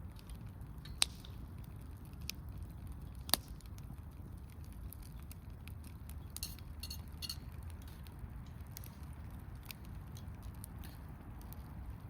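Wood campfire crackling over a low steady rush, with two sharp pops, one about a second in and another a little after three seconds, and a few short hissing spits a little past the middle.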